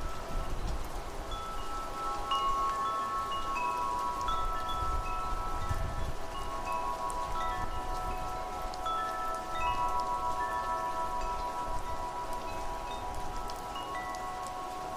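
Wind chimes ringing: many tones struck at irregular moments and each left to ring for seconds, over a steady hiss of rain and a low rumble of wind.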